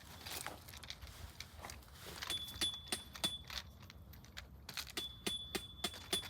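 A quick, irregular series of metallic clicks and taps, with a high ringing tone sounding under them for about a second in the middle and again near the end.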